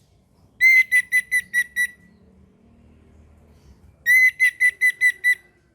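Orange-headed thrush singing: two phrases of about six clear, whistled notes repeated at one pitch, about five a second, the second phrase starting about four seconds in.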